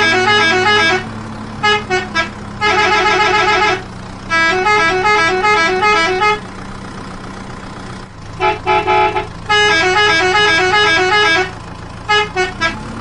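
Musical multi-tone vehicle horn sounding in bursts, with quick short beeps and longer runs of two alternating notes, over a steady low engine-like drone.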